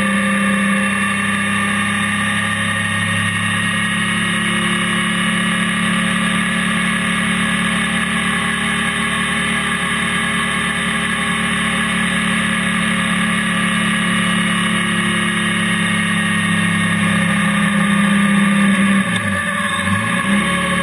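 Honda NC700X's parallel-twin engine running steadily as the motorcycle cruises, heard with wind and tyre noise from a camera mounted near the front wheel. Near the end the engine note dips briefly in pitch and then comes back up.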